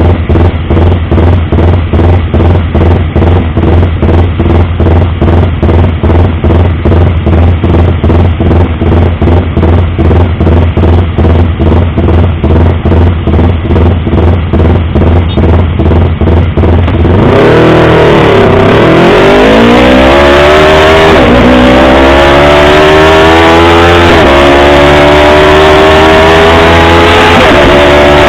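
Yamaha YZF-R25 250 cc parallel-twin motorcycle engine running at a steady low speed with an even pulsing beat, about three a second. About two-thirds of the way in it turns much louder, and the revs climb, drop back a little and climb again four or five times. The sound is loud enough to overload the recording.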